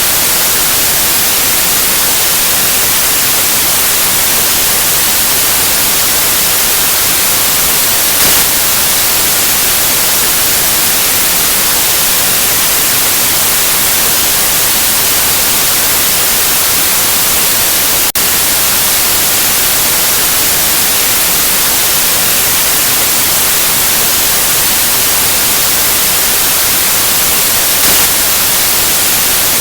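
Steady, loud electronic white noise: an even hiss across the whole range, strongest in the highs, with a momentary dip about eighteen seconds in.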